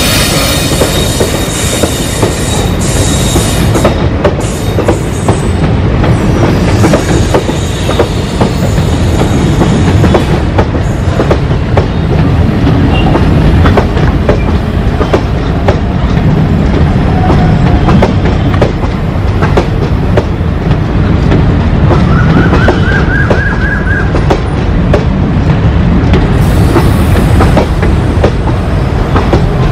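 An empty passenger train of Indian Railways coaches, hauled by a WDM-3A diesel locomotive, rolling past. The wheels clatter over the rail joints in a steady clickety-clack over a continuous rumble. A high ringing tone fades out in the first few seconds.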